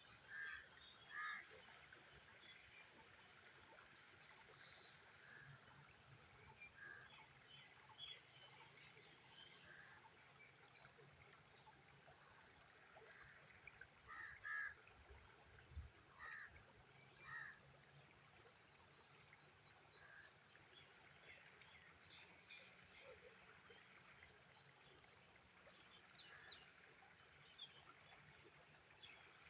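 Water streaming and trickling steadily, with birds calling now and then over it in short calls, a few louder ones about a second in and again around the middle.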